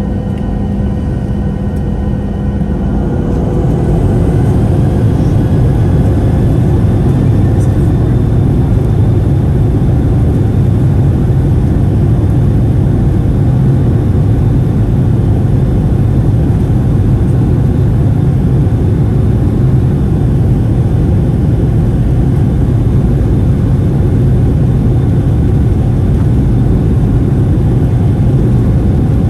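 Boeing 737-800's CFM56 jet engines heard from inside the cabin, spooling up with a rising whine and growing louder about three to four seconds in, then a steady loud rumble at high thrust, typical of the takeoff run.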